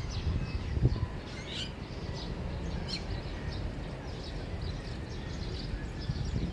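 Small birds chirping here and there, short high calls, over a steady low rumble of outdoor background noise.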